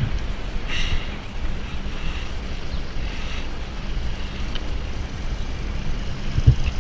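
Steady wind and road rumble on a helmet-mounted GoPro as a bicycle rolls along. There is a single short knock near the end.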